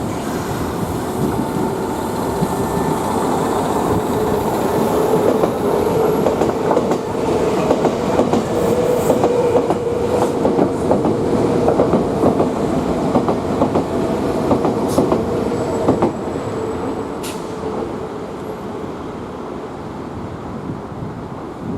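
Nankai electric train running past at the station, its wheels clicking over the rail joints over a steady hum; the sound builds and then fades away over the last few seconds.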